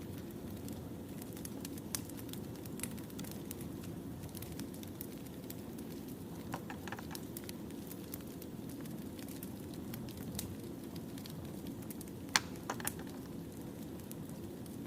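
Burning firewood crackling: a steady low rush with scattered sharp pops, the loudest a snap about twelve seconds in.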